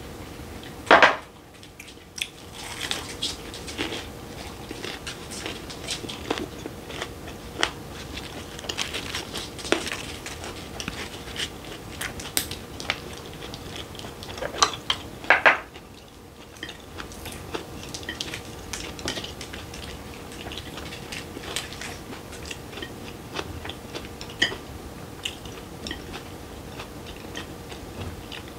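Close-up chewing and crunching of raw fish wrapped in lettuce with green chili peppers, with light clinks of chopsticks and dishes. A short loud noise about a second in and a few louder crisp crunches around the middle.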